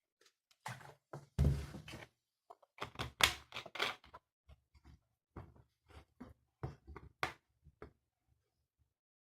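A string of irregular soft thunks and taps, with a heavier knock about one and a half seconds in and a quick cluster of taps a couple of seconds later.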